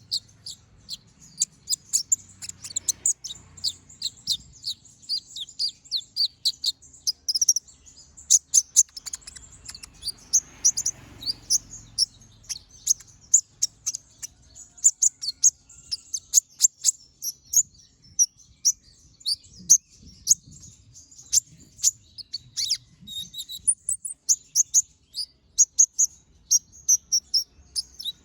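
Konin (kolibri ninja) sunbird singing non-stop: a rapid run of sharp, high, short chirping notes, several a second.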